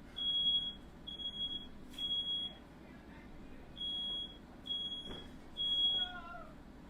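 Smoke alarm sounding in its three-beep evacuation pattern: two groups of three high-pitched half-second beeps with a pause between them. It has been set off by smoke from a fire.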